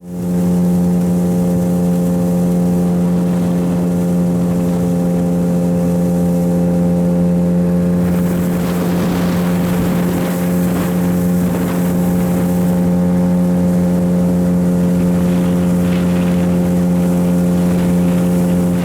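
Outboard motor of a small boat running at a steady speed, holding one even pitch, with rushing water or wind noise rising in the middle.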